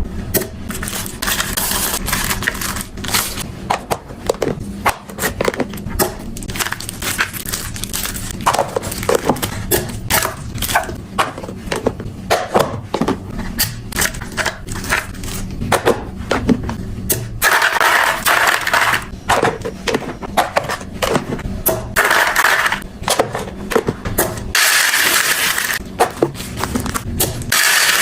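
Items and containers being handled and set down: a dense run of clicks, taps, knocks and clatter. In the second half come several stretches of hissing rustle, each a second or a few seconds long.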